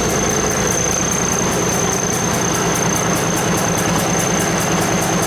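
The 1964 White's engine idling steadily on its first start after about ten years of sitting, with a fast, even ticking over the running.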